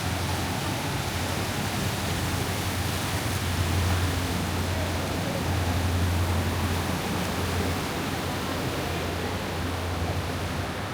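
Steady road and engine noise heard inside a moving car: a constant low rumble under an even hiss.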